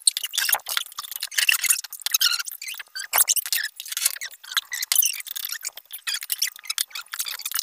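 Noisy eating at a table: metal spoons and a plastic ladle scraping and clicking against plastic bowls and a plate, mixed with slurping and mouth noises, a dense string of short, high, squeaky clicks.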